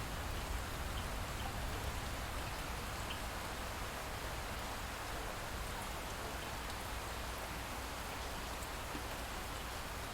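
Light rain falling steadily, an even hiss with a few faint scattered drop ticks.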